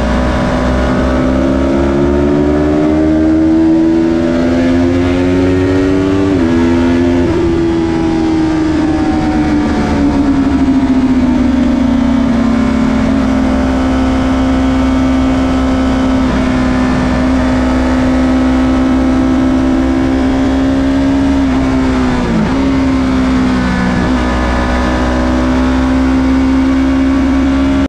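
Yamaha YZF-R3's 321 cc parallel-twin engine running hard on track, heard from the bike. The revs climb, drop sharply about six seconds in, ease off to a fairly steady pitch, and dip briefly again about three-quarters of the way through.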